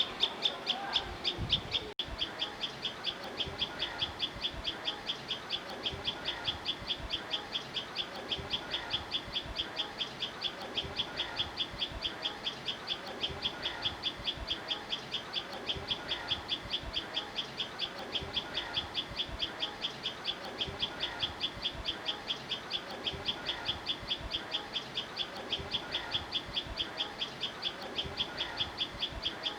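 A bird repeating one short, high note about three times a second, very evenly and without a break, with fainter sounds lower down.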